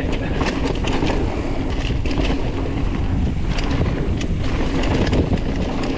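Wind buffeting the microphone on a fast mountain bike descent, over the rumble of tyres on dry dirt trail, with frequent clicks and rattles from the bike.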